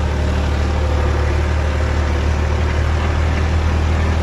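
Tractor's diesel engine running at a steady speed with a deep, constant hum.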